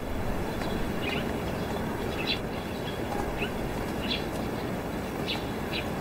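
Small birds chirping: short, separate calls about once a second, over a steady background hiss of outdoor ambience.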